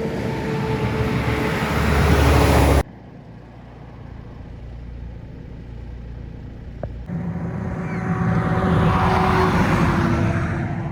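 Heavy trucks passing on the road. One truck runs loud and cuts off suddenly about three seconds in. After a quieter stretch, another truck's engine approaches, is loudest about two seconds before the end, and fades away.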